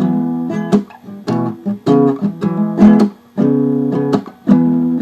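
Acoustic guitar strumming chords in a steady rhythm, an instrumental passage between sung lines of a blues song.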